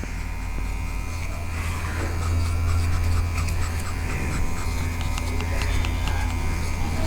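Small electric pet nail grinder running steadily, a low hum with a thin whine over it.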